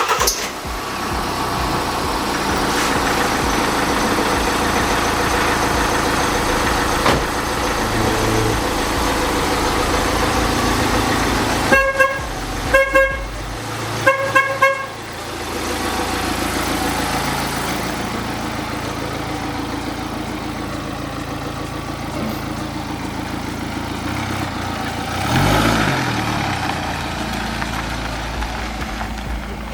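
Mini Cooper's rebuilt BMW N47 four-cylinder diesel engine starting and running steadily, with several short toots of the car's horn about midway and a brief rev that rises and falls near the end.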